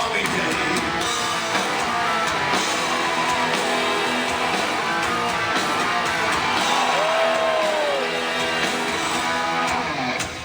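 Live heavy metal band playing an instrumental stretch, with electric guitar prominent. A single held note bends up and back down about seven seconds in.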